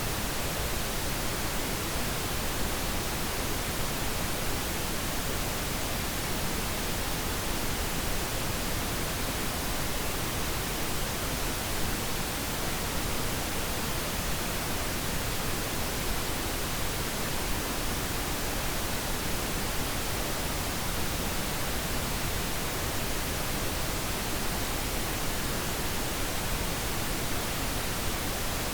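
Steady pink noise, an even unchanging hiss spread across the whole range from low rumble to high treble.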